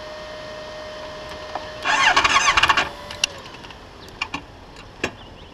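Motorcycle starter motor cranking for about a second, with the engine not catching: the bike has run out of oil and cut out. A steady high tone runs underneath for the first few seconds and fades, and a few sharp clicks follow the cranking.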